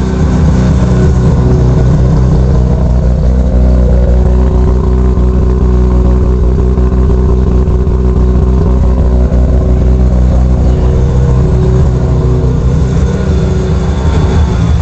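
Turbocharged Mazda RX-7 FD's twin-rotor 13B rotary engine with a GT4088R turbo, idling steadily and loudly on its first start-up with the new turbo system.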